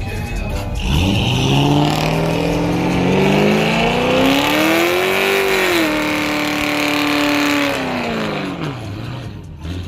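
Car engine revving: it climbs in pitch for about four seconds, holds at high revs for about two seconds, then drops back to idle.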